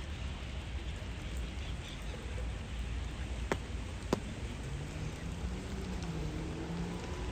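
Steady rain falling on a city street: an even hiss over a low rumble, with two sharp ticks a little over halfway through and a faint low drone near the end.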